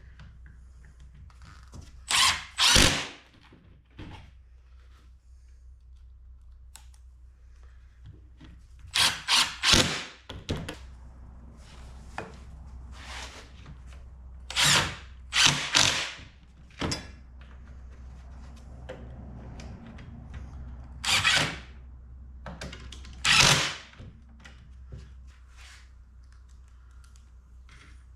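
Power drill driving pocket-hole screws into a wooden frame joint in short bursts: about five runs, several of them in quick pairs.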